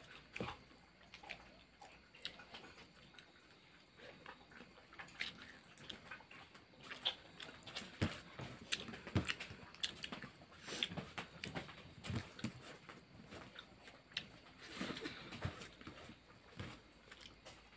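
A man eating rice with his hand from a steel plate: chewing and lip-smacking mouth sounds, with fingers mixing rice on the plate, heard as many small irregular clicks and smacks.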